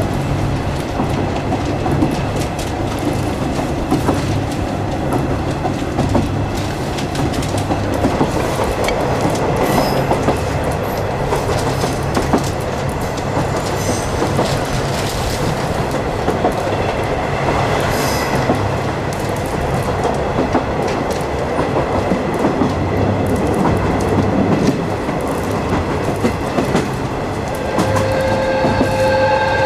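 50-series passenger coach hauled by a DD51 diesel locomotive running along the track, with steady rumble and regular clicks of the wheels over rail joints. A steady high tone joins near the end.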